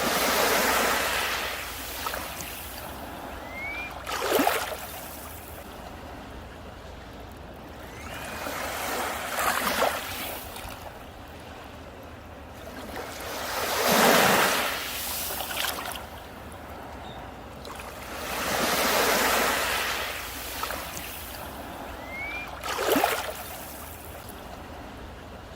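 Sea waves breaking on a beach, one swell surging and fading about every four to five seconds, some ending in a sharp crash.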